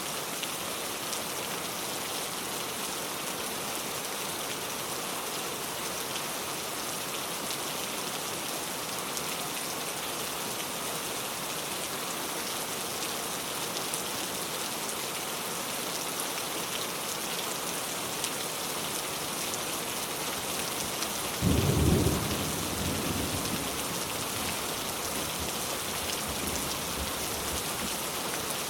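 Steady rain falling, with a sudden loud rumble of thunder about three-quarters of the way through that dies away over a couple of seconds.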